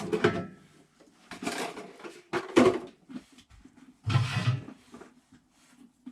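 Several separate bursts of clattering and scraping from objects being handled, about a second apart; the loudest is around two and a half seconds in.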